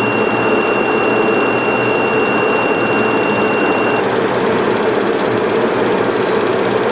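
Steady flight-deck noise of a Boeing 737-200 in flight: a constant rush of airflow and engine noise. A thin high whine runs through it and cuts off about four seconds in.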